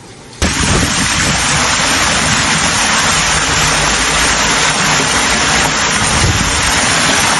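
Loud, steady rushing of storm floodwater, with low rumbling buffets underneath, starting abruptly about half a second in.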